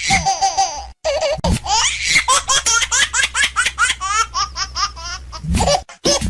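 Laughter: a long run of quick, high-pitched laugh pulses, about five a second, broken off briefly near the start and again near the end.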